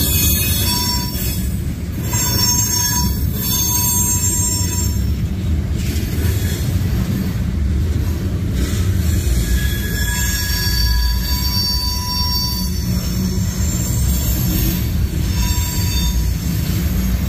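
CSX manifest freight train's tank cars and covered hopper cars rolling past with a steady heavy rumble, while steel wheels squeal in high, thin tones that come and go.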